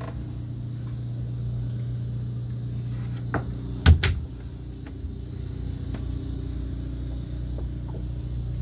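An engine running steadily with a low hum, with a few sharp knocks about three and four seconds in.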